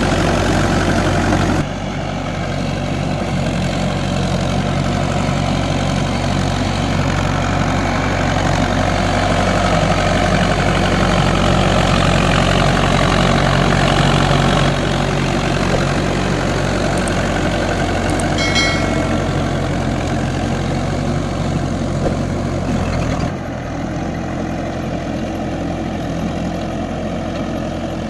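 Tractor diesel engine running steadily under load, with abrupt shifts in its sound about two seconds in and again near the end. A brief high-pitched tone is heard about two-thirds of the way through.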